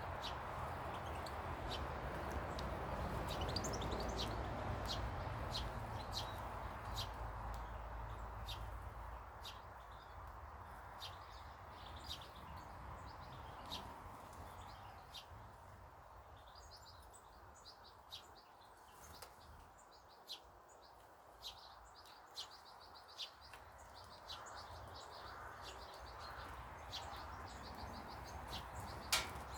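Small garden birds chirping and calling in many short, high chirps, over a low background rumble that fades out about a third of the way through.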